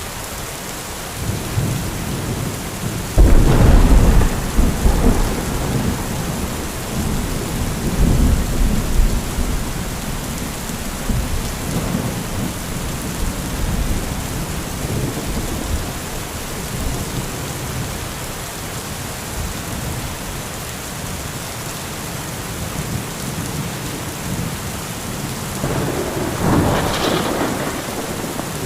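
Heavy thunderstorm: steady rain with a sharp thunderclap about three seconds in that rolls on as a deep rumble for several seconds, and another peal of thunder near the end.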